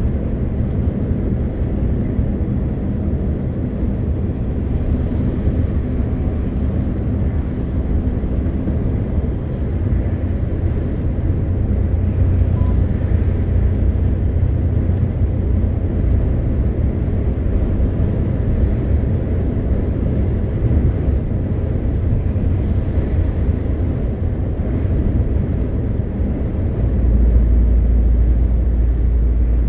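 MAN TGX 520 truck's six-cylinder diesel engine running under way with road noise, a steady low drone. About 27 seconds in, a deeper hum comes in and the sound gets a little louder.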